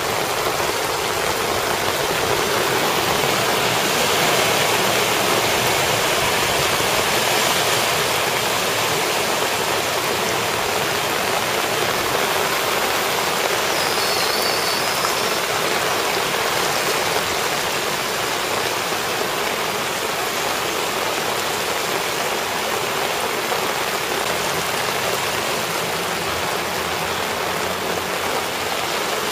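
Heavy rain pouring down on flooded streets: a dense, steady hiss.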